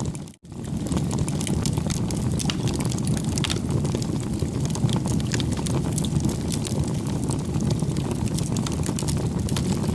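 Bonfire crackling: a steady low rumble of burning with many small sharp pops and snaps throughout. The sound drops out for a moment about half a second in, then resumes.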